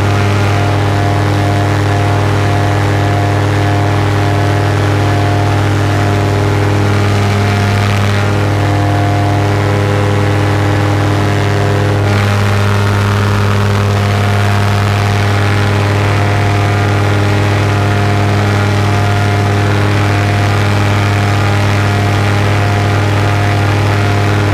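Paramotor engine droning steadily in flight, with a strong low hum and its pitch shifting slightly about a third and halfway through.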